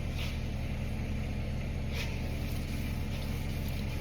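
Steady low machine hum, with two faint swishes about two seconds apart from a 1200-grit wet-dry sanding pad rubbed over freshly painted tractor sheet metal.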